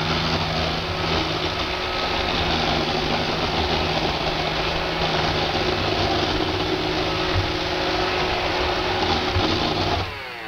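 iRobot Roomba 560 robot vacuum running on a hardwood floor, a steady loud whirring with a constant rattle. Just before the end the noise drops and falls in pitch.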